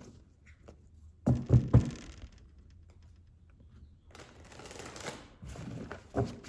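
Tarot cards being shuffled by hand: a few sharp knocks of the deck on the table, then a stretch of rustling and flicking cards.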